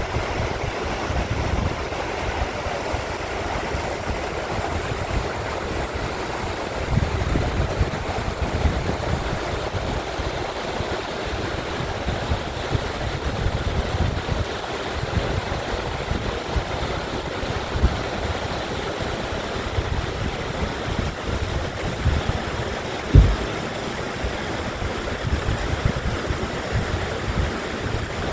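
Valley stream running steadily, with wind rumbling on the microphone and one brief thump late on.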